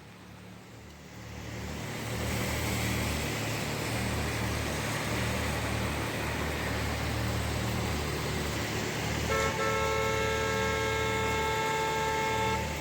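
A motor vehicle running with a steady low hum and road noise, and a car horn held for about three seconds near the end.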